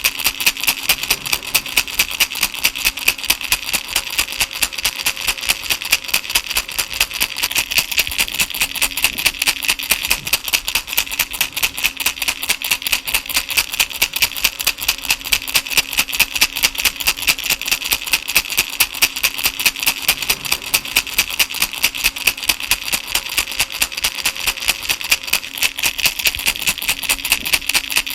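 Baby rattle shaken steadily in a fast, even rhythm.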